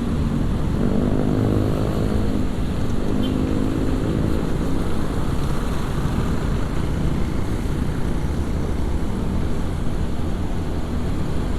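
Motorcycle engine running while riding, under a steady low rumble of wind and road noise. In the first half, an engine hum with a clear pitch rises and then holds before fading back into the rumble.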